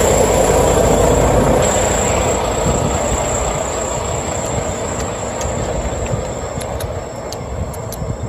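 Heavy truck's diesel engine running at low speed while reversing, a steady rumble that slowly eases off, with a few faint clicks in the second half.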